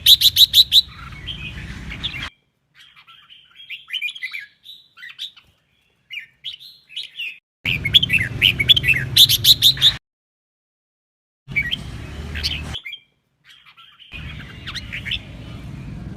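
Red-whiskered bulbul singing: bursts of quick chirped, whistled phrases that stop abruptly into dead silence between bursts, with a softer run of chirps in the second few seconds.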